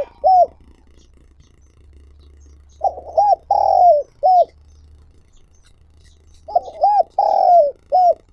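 Spotted dove cooing: the end of one phrase at the very start, then two full phrases about three and a half seconds apart. Each phrase is two short coos, a longer drawn-out coo and a final short coo.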